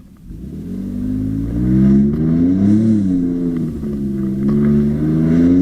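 Ford Raptor's twin-turbo V6 with Corsa Extreme cat-back exhaust and downpipes, accelerating hard. The engine note swells in the first second or so and climbs in pitch, eases back around three seconds in, then climbs again near the end.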